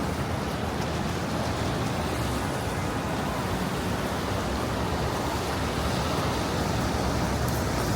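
Steady wash of city street traffic noise, an even hiss with a low rumble underneath.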